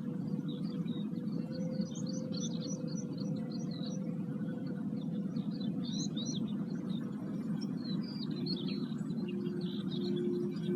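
Singing bowls ringing with steady, sustained tones, a second, lower bowl swelling in near the end, while many small birds chirp and twitter over a low rushing noise.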